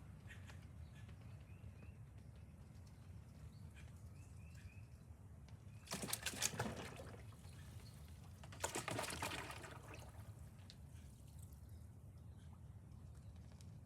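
Ducks splashing in a small pool of water, in two loud bursts about halfway through, the second a little over a second long, over faint short chirps.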